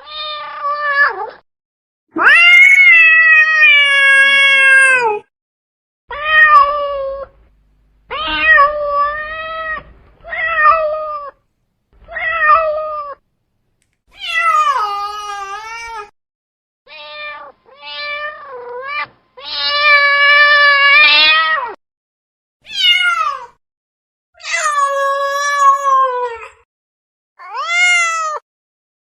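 Domestic cat meowing, about a dozen drawn-out meows one after another with short silent gaps between them, the longest lasting about three seconds.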